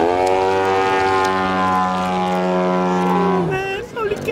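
47% scale model airplane's 201cc horizontally opposed engine revving up to a high, steady pitch, holding there for about three seconds, then dropping away sharply near the end.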